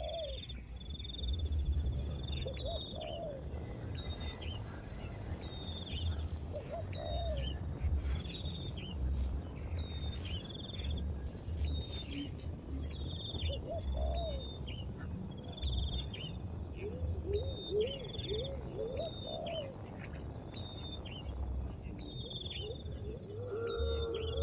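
Outdoor ambience: a bird repeating a short high chirp about once a second over a steady insect drone, with occasional lower rising-and-falling calls and a low rumble underneath.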